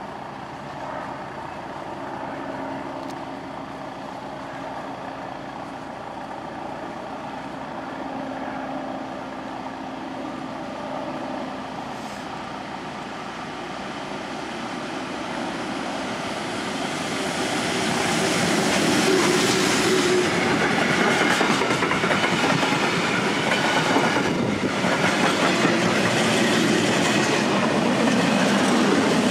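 Freight train, hauled by an electric locomotive, approaching and passing close by. It grows steadily louder for the first half, then the wagons' wheels clatter rhythmically over the rail joints as they roll past.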